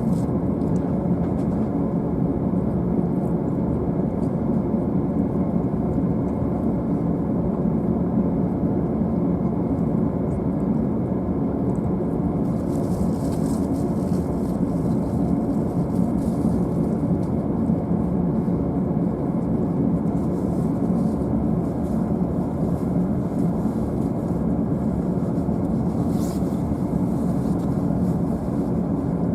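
Steady low hum inside the upper deck of a stationary JR East E531-series double-deck car, waiting to depart.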